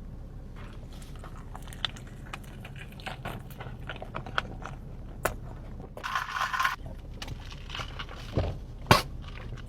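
Close-miked ASMR eating of a Taco Bell taco: biting and chewing with scattered sharp mouth clicks, a denser crunching burst about six seconds in, and a few louder bites near the end.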